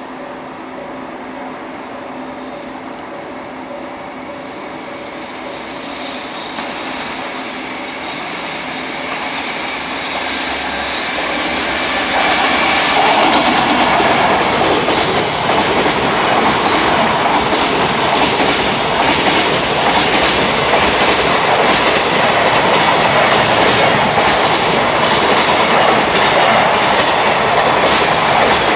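Electric freight locomotive and its container wagons passing at speed: a rumble that grows steadily louder for about twelve seconds as the train nears, then a loud rapid clickety-clack of the wagons' wheels running over the rail joints.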